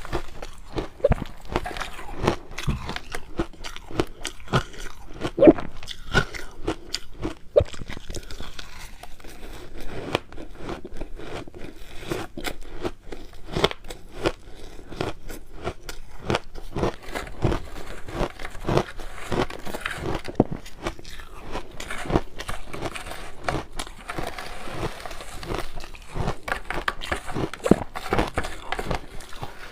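A person biting and chewing ice, a dense run of crunches and crackles with no let-up.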